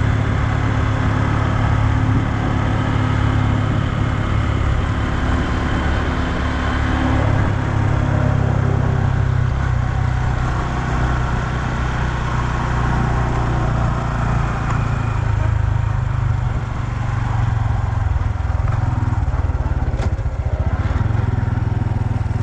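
2020 Honda Super Cub's 125 cc single-cylinder four-stroke engine running steadily on the move, with wind noise over it. The engine note changes about seven seconds in and again around fifteen seconds in, and there is a single sharp click near the end.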